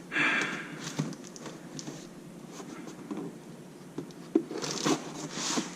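Cardboard shipping box being opened: a scratchy rip or cut through the packing tape at the start, then light rustling and knocks of cardboard, with another scratchy stretch near the end.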